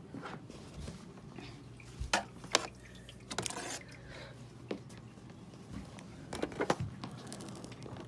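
Scattered clicks and knocks from hands handling the parts of a Bissell CleanView upright vacuum while it is switched off, with a cluster of sharper knocks near the end.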